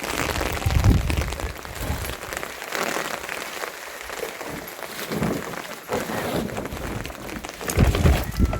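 Rain falling steadily, a dense patter of drops on surfaces. Two low, dull thumps stand out, about a second in and again near the end.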